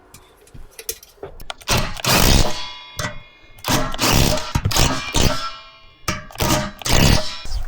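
Metal parts clanking and knocking together, several loud impacts in clusters, some leaving a ringing metallic tone.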